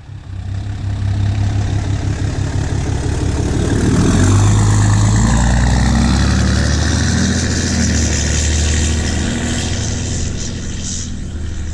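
2016 Ram 2500's 6.7 Cummins turbo-diesel inline-six, DPF-deleted and run through a 5-inch straight-pipe exhaust with no muffler, driving past. The exhaust note builds quickly, is loudest about halfway through, and then eases off a little.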